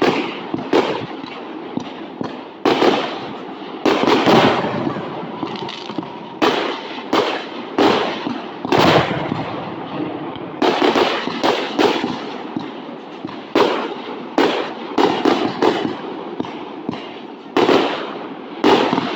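Aerial fireworks bursting in a continuous barrage, sharp bangs every second or so, with quick clusters of several, each trailing off in a rumbling echo.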